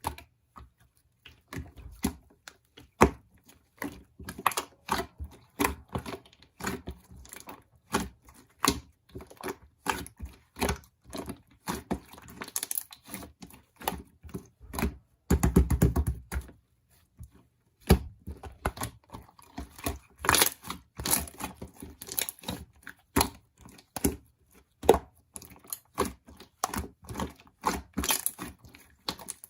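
Slime being squeezed and kneaded by hand, making a rapid, irregular run of sharp clicks and pops, with a longer dense crackle about halfway through.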